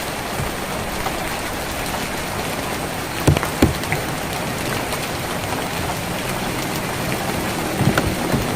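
Steady rain drumming on a tin roof, with two sharper drop knocks a little over three seconds in. A faint low hum comes in near the end.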